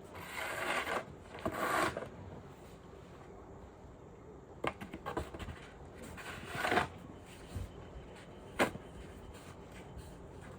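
Snow being scraped and scooped with a shovel: two scraping strokes in the first two seconds, then a few sharp knocks and another short scrape later on.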